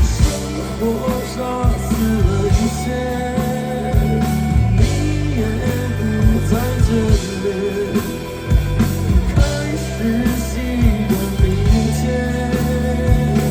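Live rock band playing a song: drums striking steadily over heavy bass and sustained instrument tones, with a voice singing.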